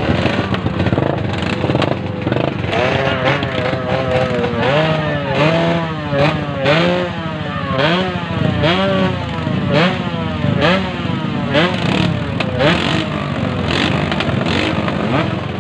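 Yamaha RX-King two-stroke single-cylinder motorcycle engine revved in repeated short blips, the pitch rising and falling back about once a second, over crowd noise.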